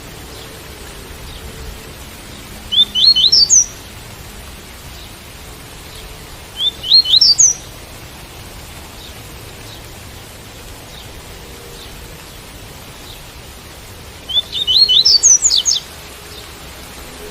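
Double-collared seedeater (coleiro) singing the tui-tui song type: three short phrases of quick rising whistled notes, the last phrase longer, over a steady hiss of rain.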